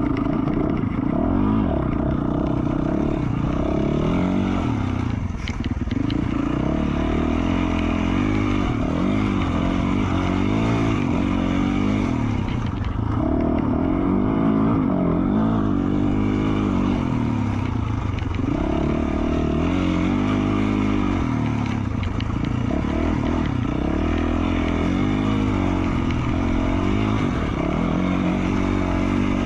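2020 Yamaha YZ450F's single-cylinder four-stroke engine, breathing through an FMF Q4 slip-on exhaust, rising and falling in pitch again and again as the throttle is opened and closed while the bike is ridden.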